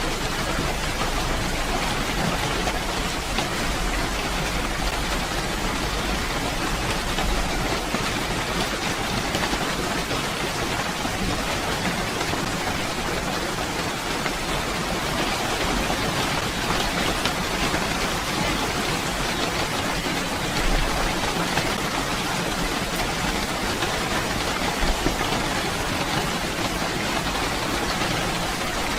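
Steady heavy rainfall, an even hiss of falling rain with fine drop ticks and a low rumble underneath.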